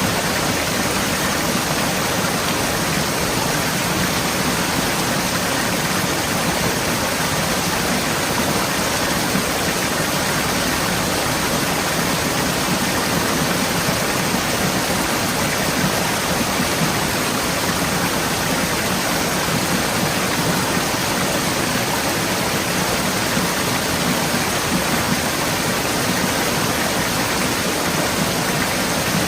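Forest stream flowing steadily over rocks, a constant, even rush of water.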